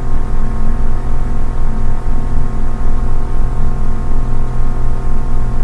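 Ambient background music: a steady drone of sustained, held tones with no beat.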